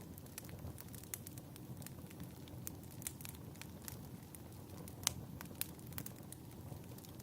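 Wood fire crackling: irregular pops and snaps over a low steady rumble, with one sharper pop about five seconds in.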